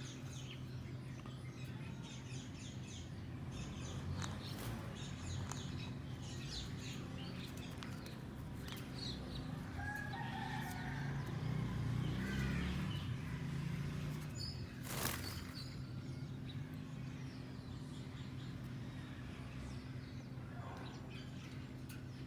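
Green ringneck and Alexandrine parrots moving about a cage: scattered taps and clicks, a few short soft calls, and one sharp knock about fifteen seconds in, over a steady low hum.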